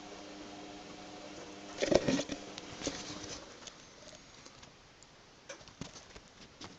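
Scattered light clicks and knocks, loudest in a short cluster about two seconds in, over a faint steady hum that fades out about three seconds in.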